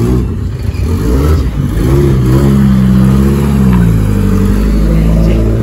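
A car engine revving up and down, then holding a higher steady pitch before dropping back to a steady lower idle near the end.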